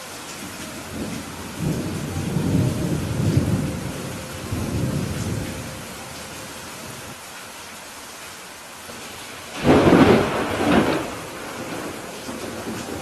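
Steady rain with thunder: a low rolling rumble swells and fades over the first few seconds, then a sharp, loud thunderclap about ten seconds in rumbles away over a second or so.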